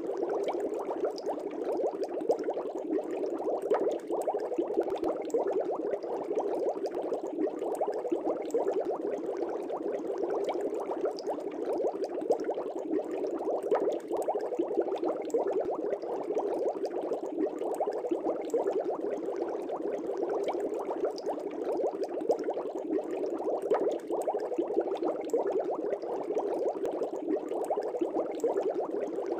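Fish tank air bubbles rising and breaking at the surface in a steady, continuous bubbling, dense with tiny pops.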